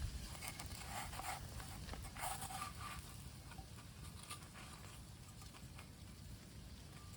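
Rustling and small handling clicks, busiest in the first few seconds, over a steady low rumble.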